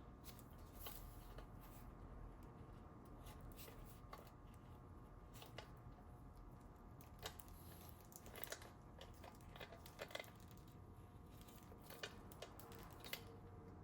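Near silence with faint, scattered metallic clicks: an M14×1.5 hand tap on a 3/8-inch socket being set and started into the stripped primary-case drain hole of a Harley-Davidson Sportster.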